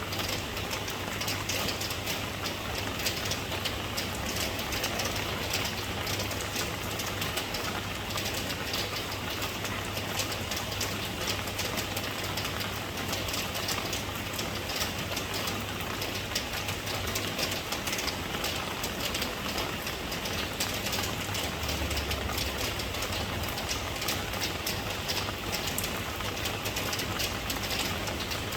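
Steady rain falling, an even dense patter of drops with a low, constant hum underneath.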